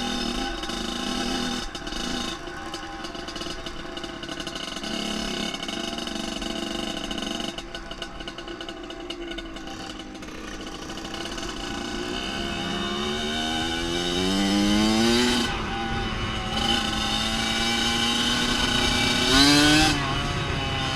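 Dirt bike engine running and revving, with two long rises in pitch: one building over about three seconds past the middle and falling off sharply, another peaking near the end.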